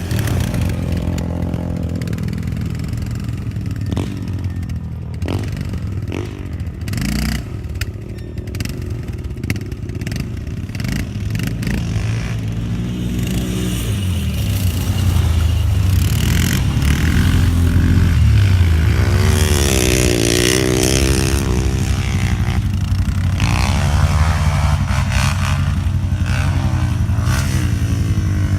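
Motorcycle engine running loudly and revved several times, its pitch climbing and dropping back, louder in the second half.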